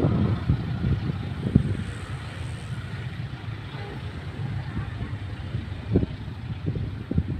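A departing passenger train rolling away along the track: a steady low rumble, with a few short low thumps.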